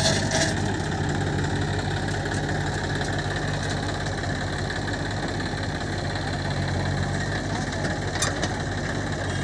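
Diesel engine idling steadily, with a brief click near the start and another about eight seconds in.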